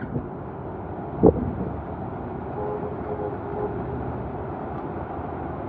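Steady rushing noise of a rainy street with vehicle noise. There is a single sharp knock about a second in, and a faint steady tone in the middle.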